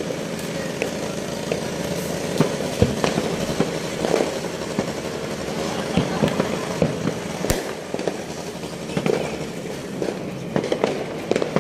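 Fireworks going off: a steady crackle with many sharp cracks and pops at irregular intervals, a few of them louder than the rest.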